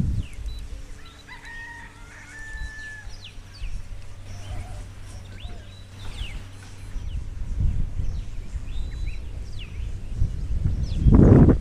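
A rooster crowing once, with small birds chirping repeatedly throughout. A faint steady hum runs through the first half, and a loud low rumble sounds just before the end.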